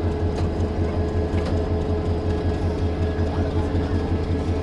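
Railway locomotive running at a standstill: a steady low rhythmic throb with a constant hum above it.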